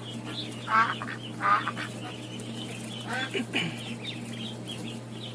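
Ducks quacking: a few louder quacks in the first three seconds over a steady chatter of fainter, higher calls, with a low steady hum underneath.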